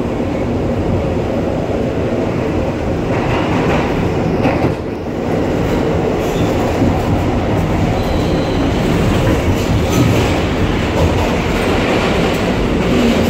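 New York City subway R62A car running along the track, heard from inside the car: a steady, loud rumble of wheels and running gear.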